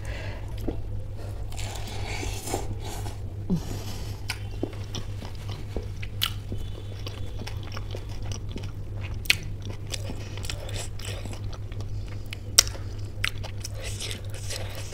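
Close-miked chewing and biting of samosa chaat with ghugni: wet mouth sounds with a few sharp crunches and clicks spread through, over a steady low hum.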